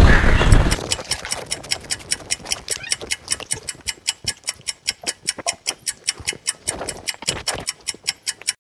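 Even, rapid ticking, about four ticks a second, like a clock-tick suspense effect. It follows a loud burst of rumbling noise in the first second and stops abruptly at the end.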